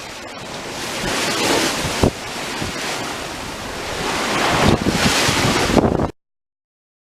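Wind buffeting the microphone over the rush of sea water past a sailboat's hull, swelling and easing, with a few sharp thumps. The sound cuts off suddenly about six seconds in.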